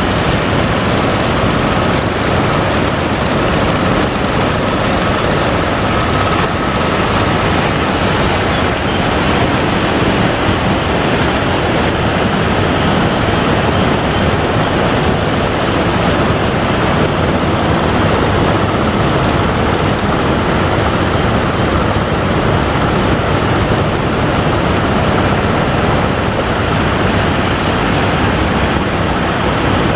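Steady noise of ocean surf breaking, with wind on the microphone.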